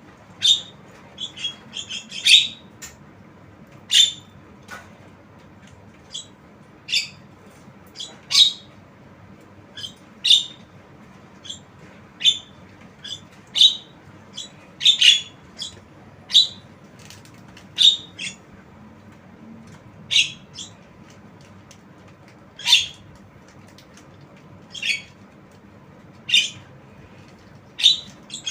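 Javan myna giving short, sharp, high squawking calls, one every second or two, some in quick pairs or clusters.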